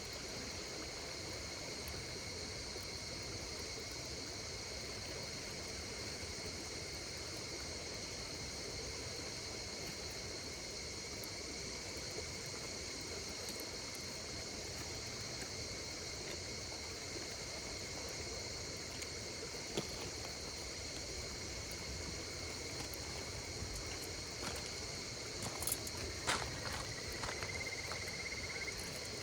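Insects calling in a steady, continuous high drone over the low hiss and crackle of a campfire. Near the end a few sharp pops come from the fire.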